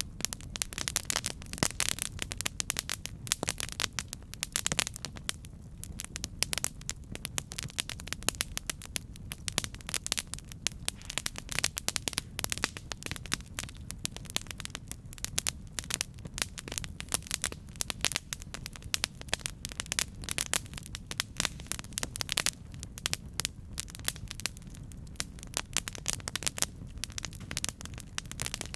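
Campfire burning with dense, irregular crackling and popping of wood over a steady low rumble of the flames.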